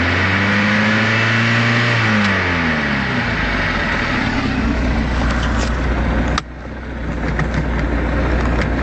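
Bayliner Capri's 3.0-litre four-cylinder inboard engine revved up, held for about two seconds, then falling back to a steady idle. The sound drops suddenly in loudness about six seconds in while the engine keeps idling.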